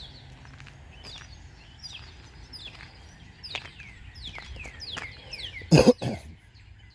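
Small songbirds chirping over and over, each chirp a quick high falling note, with two loud sharp thumps close together near the end.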